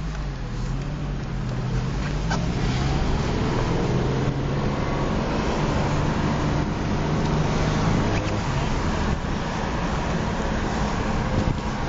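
Subaru WRX's turbocharged flat-four engine and road noise heard from inside the cabin while driving, the engine note climbing in pitch over the first few seconds and then holding roughly steady.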